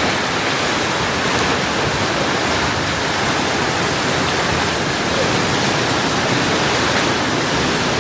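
Storm of strong wind and heavy rain: a steady, loud rushing noise with no let-up.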